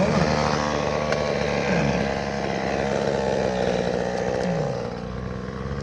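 Two-stroke chainsaw running at high revs, its pitch dipping and recovering several times, then easing off and dropping quieter about five seconds in.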